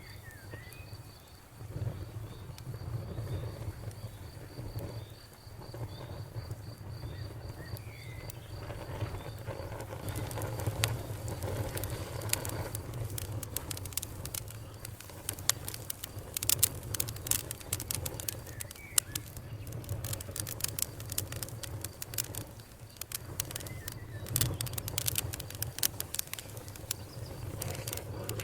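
Wood fire burning in a fireplace: a steady low rumble of flames with crackles and pops, which become more frequent and sharper about a third of the way in.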